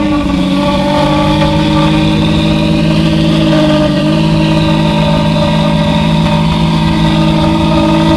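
Lamborghini Diablo GT's V12 engine idling steadily, loud and even after settling from a blip of the throttle.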